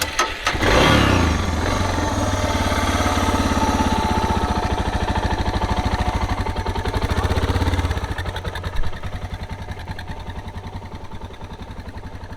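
Motorcycle engine being restarted after a stall at low revs: it cranks, catches about a second in and runs at raised revs, then drops to a quieter idle about eight seconds in, with one short blip near nine seconds.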